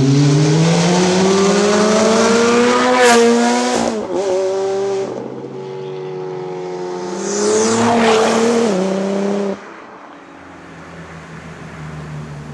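Supercar engines accelerating hard: revs climb steadily with a rising pitch, drop sharply at an upshift, then climb again on a second pull with another shift. About two-thirds of the way through, the loud engine cuts off abruptly and a quieter, steady engine runs to the end.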